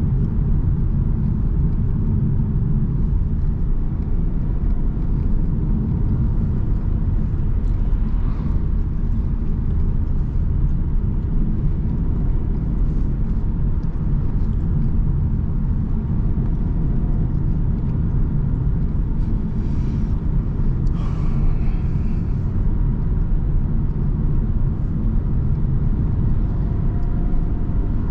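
A car being driven at a steady pace: the even low rumble of engine and tyre noise on the road, without a break.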